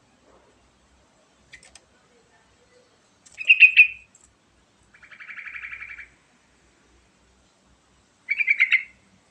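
Yellow-vented bulbul singing in short bursts: three quick bubbly phrases of rapid notes, the middle one an even, quieter rattling trill, with pauses between them.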